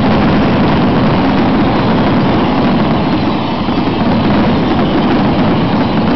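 Fireworks show going off as a dense, continuous rumble, the booms running together into one steady, loud low roar with no single bang standing out.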